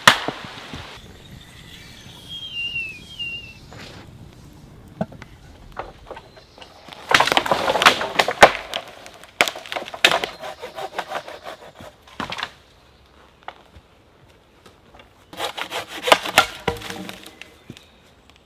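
Wood being sawn in two spells of quick back-and-forth strokes, with a few scattered knocks of wood between them.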